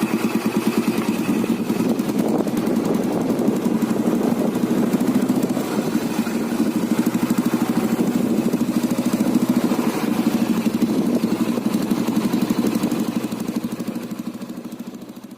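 Restored old-model Royal Enfield Bullet's single-cylinder four-stroke engine running with its steady, even beat, fading out near the end.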